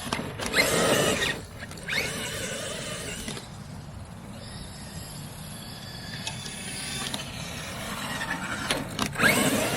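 Traxxas X-Maxx 8S RC truck's brushless electric motor whining up in pitch in several hard bursts of throttle, about half a second in, about two seconds in and again near the end, as the truck launches into a wheelie.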